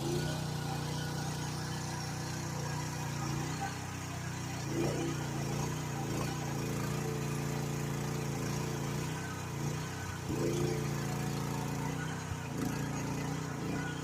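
GroundHog KH14G mini excavator's engine running steadily under the operator's control, its pitch briefly swooping a few times, about 5, 10 and 13 seconds in.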